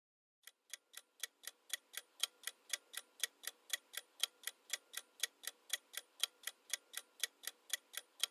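Countdown-timer clock sound effect ticking evenly, about four ticks a second with a stronger tick each second, fading in at the start.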